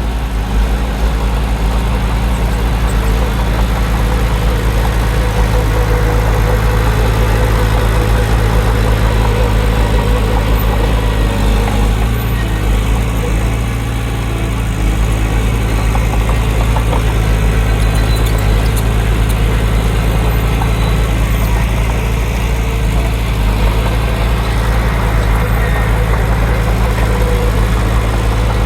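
Heavy diesel engine of an earthmoving machine running steadily under load, with a deep constant drone and a short dip in loudness about halfway through.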